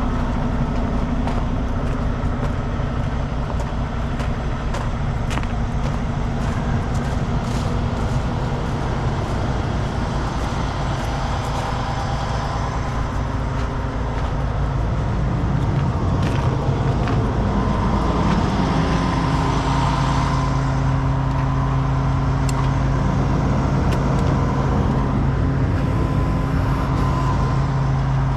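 Heavy diesel truck engine running steadily under a pull. About halfway through it revs up and holds the higher speed. Short clicks and knocks are heard throughout.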